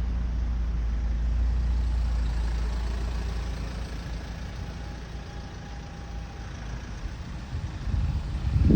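Vehicle engine running with a steady low rumble that eases off after the first few seconds. A few louder low thumps come near the end.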